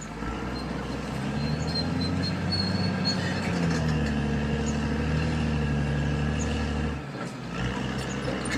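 Caterpillar D6R XL bulldozer's diesel engine running under load, its pitch rising and falling as the machine works, with a brief drop about seven seconds in before it picks up again.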